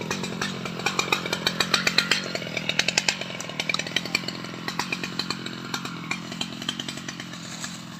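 A two-stroke Stihl MS 881 chainsaw runs steadily under a dense crackle of sharp clicks and snaps. The clicks are thickest in the first half and thin out as the sound eases off near the end.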